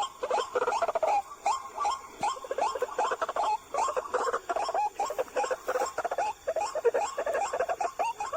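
White-breasted waterhen calling: a rapid, unbroken series of short harsh notes, about three or four a second.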